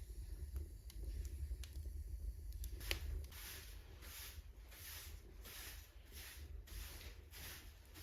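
Crunching steps in snow, a soft crunch about every half second or so, starting about three seconds in. Before them there are a low rumble and a few faint clicks.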